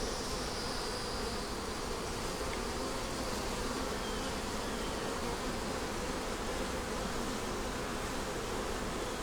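Honey bees buzzing steadily around an open Langstroth hive, a dense, even hum.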